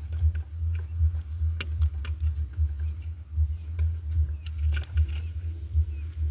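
A steady low hum with scattered light ticks and taps over it, and a faint short chirp near the end.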